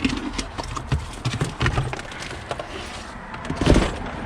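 Rummaging through tools and fittings while searching for a pipe cap: irregular clicks, knocks and clatter, with a louder thud about three and a half seconds in.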